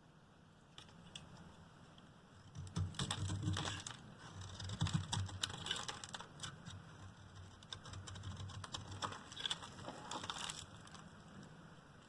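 A knife cutting through a bar of dry, hard Duru soap: a run of crisp crunching and crackling clicks with dull low knocks, starting about two and a half seconds in and stopping near the end.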